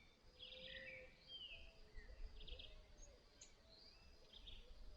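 Faint birdsong: small birds giving short chirps, trills and a falling note several times, with a faint low drawn-out whistle about half a second in, the call of an inhambu (tinamou) answering another.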